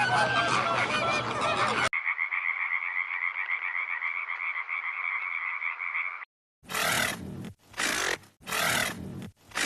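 Birds chirping, cut off after about two seconds by a frog chorus trilling steadily, then a short silence and four separate short animal calls.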